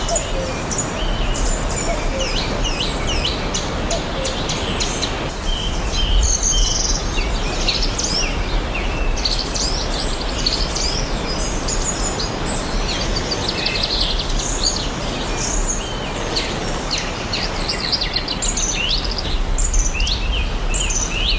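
Many birds chirping and singing in quick, overlapping calls over a steady, even rushing background noise.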